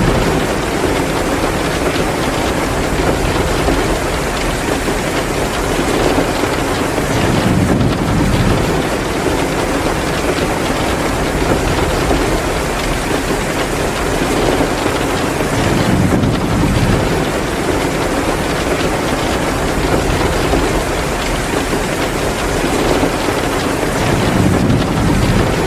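Heavy rain pouring steadily, with a fireplace crackling under it. A low swell rises and falls about every eight seconds, three times, as the ambience loops.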